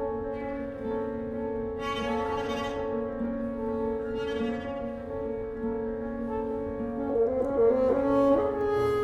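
Contemporary chamber music for solo bassoon with flute, clarinet, harp, piano and string trio: held, sustained chords, with a quicker moving figure about seven seconds in.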